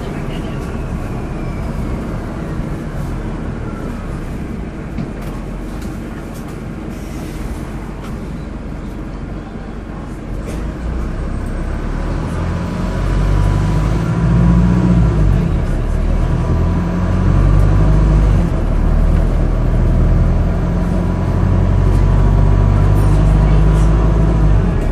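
Inside a Wright StreetDeck double-decker bus, its Mercedes OM934 four-cylinder diesel engine running with a steady low rumble. About twelve seconds in, the engine note grows louder and heavier, and a faint steady whine sits above it.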